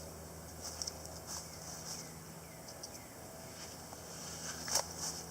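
Faint, scattered rustles and crunches of footsteps on the forest floor.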